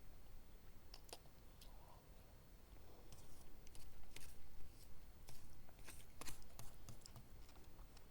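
Close-miked eating: chewing with irregular sharp clicks and wet smacks, growing busier about three seconds in.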